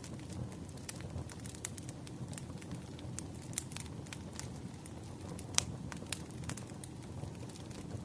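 Wood fire crackling: a steady low rumble of flames with irregular sharp pops and snaps from the burning firewood, one louder pop a little past halfway.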